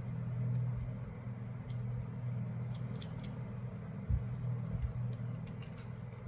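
A steady low machine hum with a few light clicks and a dull knock about four seconds in.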